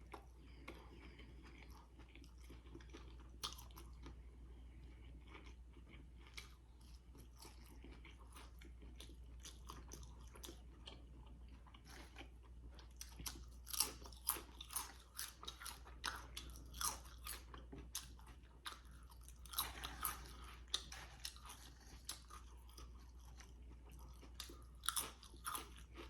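Close-up chewing and crunching of food in the mouth: soft steady chewing, broken by clusters of sharp, louder crunchy bites. A faint steady low hum sits underneath.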